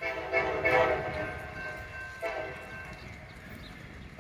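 CSX diesel locomotive's air horn sounding a chord of several notes: one long blast, then a second blast starting about two seconds in.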